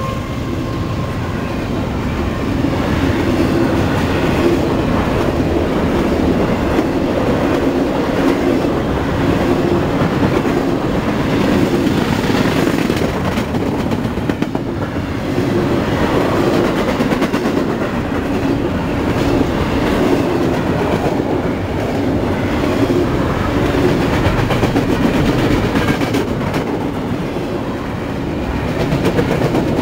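CSX double-stack intermodal train's container well cars rolling past close by: a steady rumble of steel wheels on the rails.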